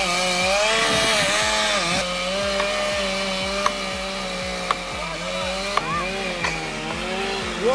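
Chainsaw engine running, its pitch rising and falling several times with the throttle, with a few sharp clicks.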